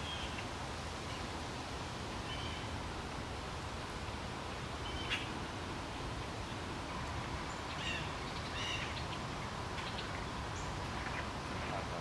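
Small birds giving scattered short chirps, several over the stretch, over a steady outdoor background noise.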